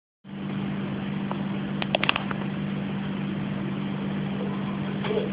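Vehicle engine running with a steady low hum over background noise. A quick cluster of sharp clicks comes about two seconds in.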